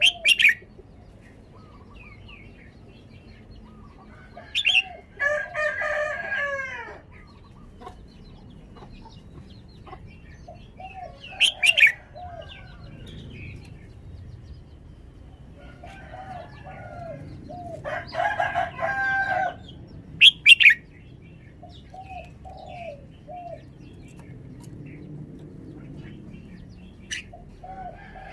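Red-whiskered bulbul singing: short, loud, sharp whistled phrases every several seconds, with two longer warbling phrases about five seconds in and again near eighteen seconds. Softer, lower repeated notes come in the gaps between phrases.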